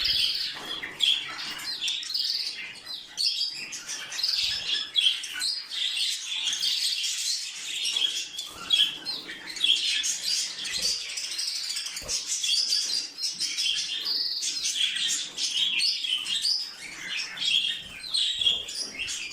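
A flock of small pet parrots chirping and chattering, many short overlapping calls with no break.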